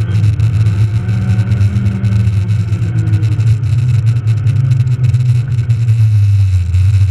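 Rally car's engine running steadily under load, heard from inside the cabin, its note wavering only slightly, with tyre and road noise on a snow-covered road.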